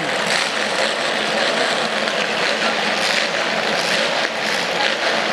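Engines of battered demolition-derby cars running loudly as they drive around the arena.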